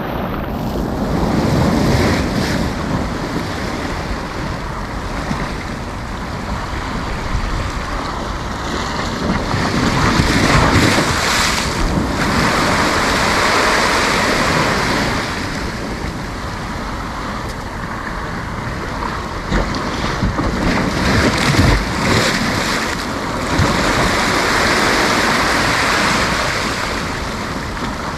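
Sea waves breaking and washing up the beach, the surf swelling louder and easing off several times, with wind buffeting the microphone.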